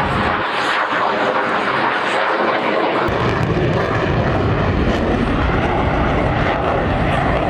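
Loud, steady jet engine noise from Blue Angels jets in flight. The deep bass drops out for the first few seconds, then comes back.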